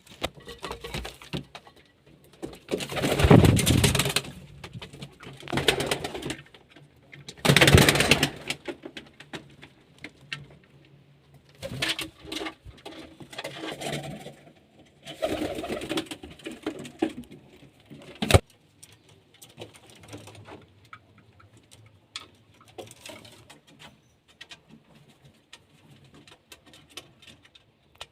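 Domestic fancy pigeons cooing, with irregular louder noisy bursts, the strongest a few seconds in and around eight seconds, and one sharp click about 18 seconds in.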